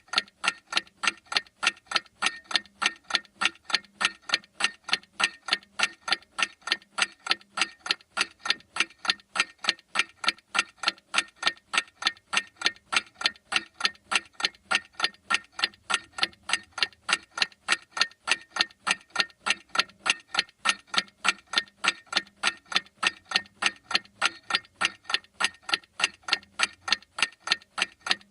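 A clock ticking, a steady, evenly spaced run of sharp ticks.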